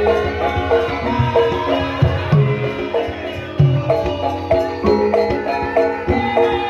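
Javanese gamelan music for lengger dance: struck metal keyed instruments play a run of separate notes over repeated hand-drum strokes.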